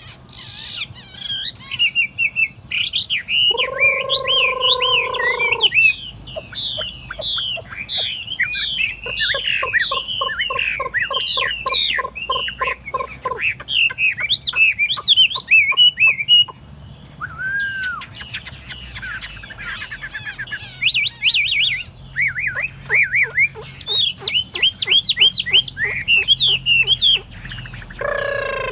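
Chinese hwamei singing a long, fast run of varied whistled phrases, quick notes sliding up and down. A low nasal call breaks in about four seconds in and again near the end, and a rapid rattle of low notes runs under the song through the middle.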